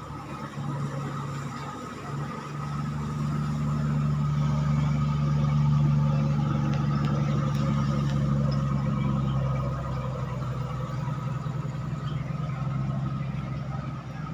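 Klotok river boat's engine running steadily. It grows louder a few seconds in and eases slightly near the end.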